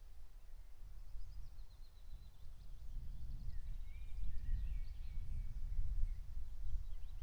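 Songbirds singing faintly over a low, uneven rumble that grows louder over a few seconds.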